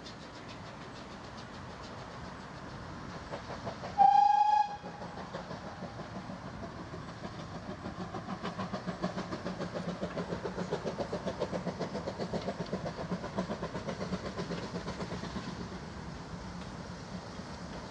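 Steam locomotive gives one short whistle blast about four seconds in, then a train's steady rhythmic beat swells and fades away.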